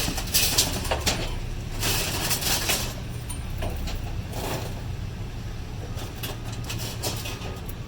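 A heavy vehicle's engine running with a steady low rumble, with several loud bursts of hissing noise over the first few seconds.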